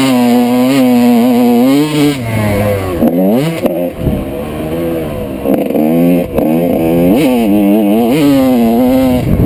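1995 Honda CR125 two-stroke motocross engine revving hard, the pitch climbing and falling repeatedly as the throttle is worked and gears are shifted. About three seconds in, the throttle is briefly chopped before it winds up again.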